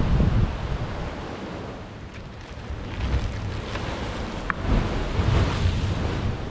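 Strong wind buffeting the microphone over sea waves washing on the shore, swelling at the start and again about five seconds in.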